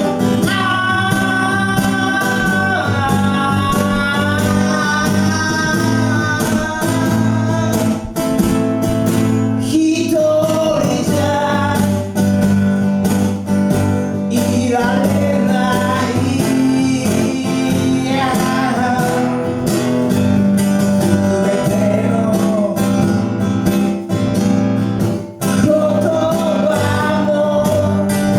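A duo playing a song live: strummed acoustic guitar under a held, bending melody line.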